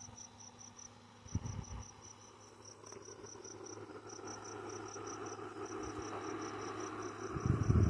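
Cricket chirping: high, evenly spaced pulses about six a second, in runs broken by short pauses. A low hum builds under it, and there is a low thump near the end.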